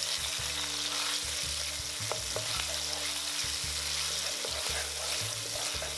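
Hot oil sizzling steadily as Sichuan broad bean paste, ginger, garlic and scallions are stir-fried in a nonstick pan, with a wooden spoon scraping and tapping against the pan now and then.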